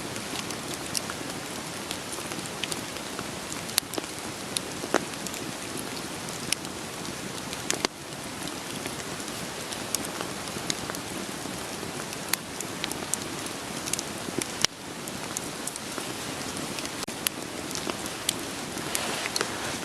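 Steady rain hiss mixed with the scattered sharp pops and crackles of burning firewood. The level dips briefly twice, about eight and fifteen seconds in.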